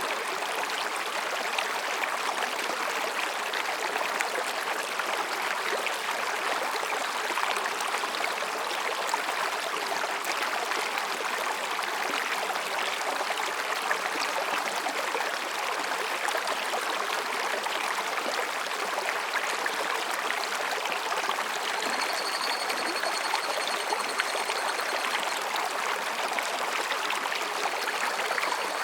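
Mountain stream running over rocks: a steady rush and babble of water. About three-quarters of the way in, a higurashi cicada's thin, high call sounds faintly over the water for a few seconds.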